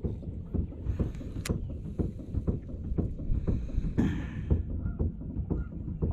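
Small waves slapping irregularly against a boat hull, with gusts of wind swelling twice on the microphone.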